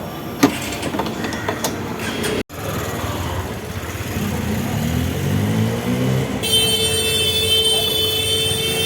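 Street traffic: a few sharp metallic clicks, then a motorcycle engine rising in pitch as it passes. Near the end a steady high tone, like a horn or electronic beep, holds for a few seconds.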